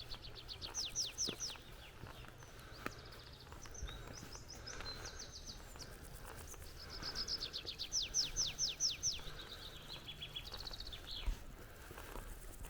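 Forest birds singing: one bird gives a rapid run of high, falling whistled notes, about seven a second, near the start and again in a longer run a little past the middle, with other short chirps in between.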